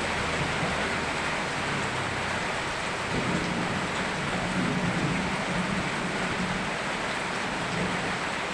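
Steady, even rain. A low droning hum sits underneath from about three seconds in until near the end.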